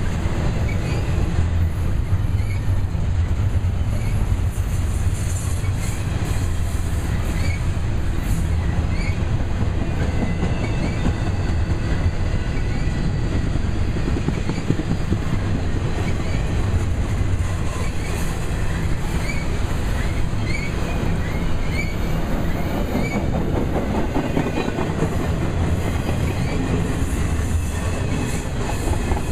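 Double-stack intermodal freight train's well cars rolling past: a steady rumble of steel wheels on the rails with clicking over the rail joints, and short high wheel squeaks now and then.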